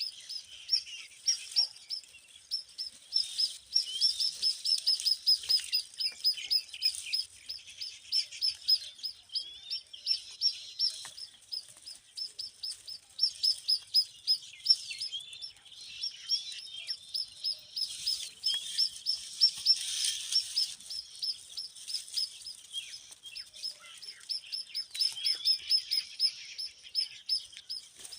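Nestling songbirds chirping continuously, a rapid stream of high-pitched chirps, several a second, with a few brief louder flurries: typical begging calls of baby birds in the nest.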